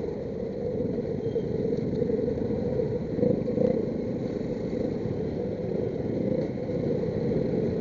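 Motorcycle riding in traffic: a steady low engine and road rumble, with no clear revving.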